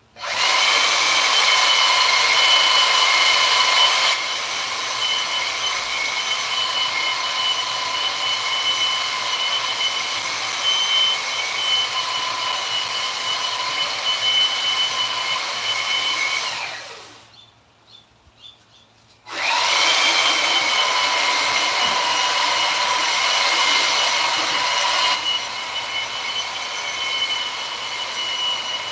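A small high-speed motor running with a steady high whine and hiss. It winds down and stops about seventeen seconds in, then spins back up about two seconds later and keeps running.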